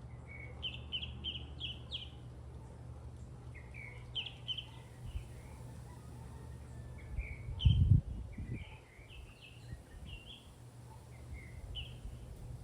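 Birds chirping in short, bright notes that come in quick runs, over a steady low background hum. A brief, loud low thump or rumble about eight seconds in.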